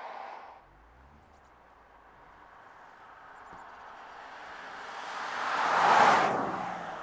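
Porsche Taycan electric car driving past: tyre and wind noise swells to a peak about six seconds in, then falls away quickly.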